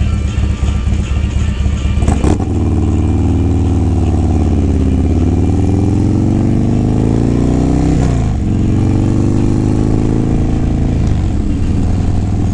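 Harley-Davidson Low Rider S's 117-cubic-inch V-twin idling, then a clunk about two seconds in as the motorcycle pulls away, the engine rising in pitch as it speeds up, with a gear change about eight seconds in and rising again after it.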